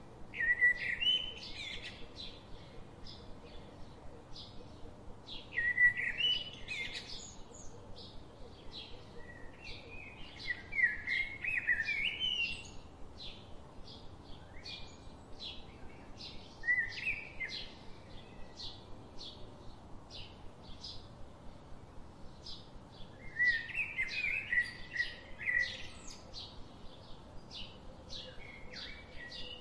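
Songbirds singing: warbling phrases every few seconds over a steady run of short chirps repeating about twice a second.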